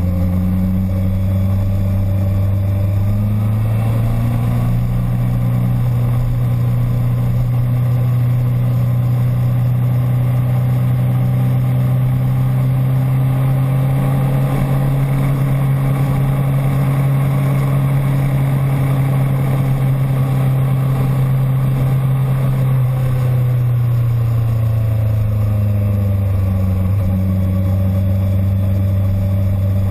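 Motorcycle engine running loudly at fairly steady revs. The pitch rises a few seconds in, holds for most of the time, and eases back down near the end.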